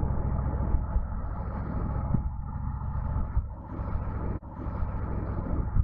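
Motorcycle engine running while riding, under a steady low rumble. The sound cuts out for an instant about four and a half seconds in.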